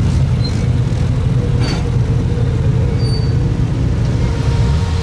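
Car engine running steadily with a deep, even rumble, and a brief hiss about a second and a half in.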